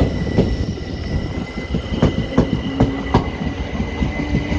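Electric multiple-unit train running through the station, its wheels clicking irregularly over rail joints and points, over a low rumble and a steady high whine.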